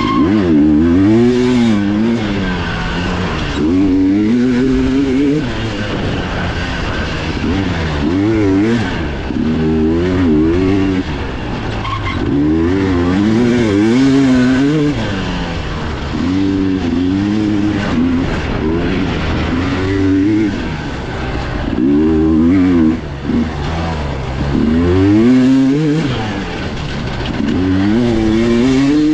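Dirt bike engine heard on board, revving up and falling back again and again as the throttle is worked and gears change.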